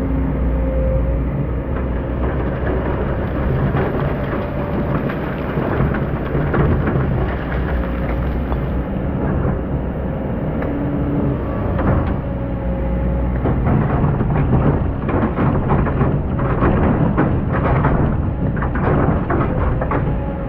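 Excavator's diesel engine running steadily under load, with a dense crackling scrape from the bucket breaking through hard, compacted sand that grows thicker in the second half.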